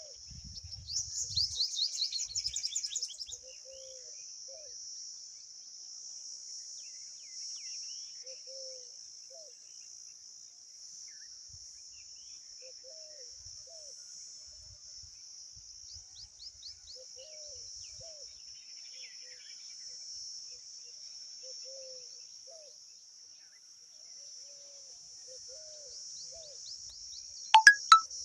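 A steady, high insect chorus of crickets. Over it, about a second in, comes a burst of rapid, high-pitched bird chirping lasting about two seconds, with sharp chirps again near the end. Faint, low, short calls repeat every couple of seconds throughout.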